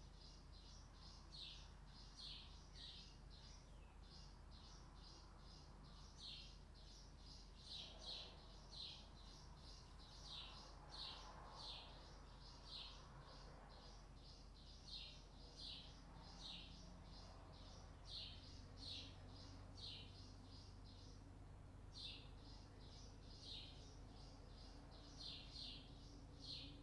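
A bird chirping over and over, short high chirps a few times a second, some sliding down in pitch, faint over a low steady background hum.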